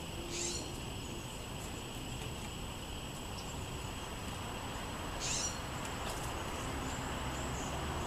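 Two short, high bird calls about five seconds apart, over steady outdoor background noise.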